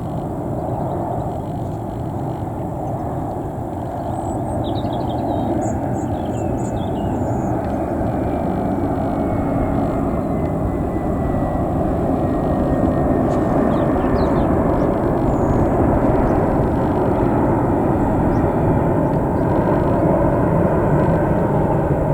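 Airbus A319-111 airliner's CFM56 turbofan jet engines, a steady rushing roar that grows gradually louder as the aircraft comes closer, with a faint falling whine.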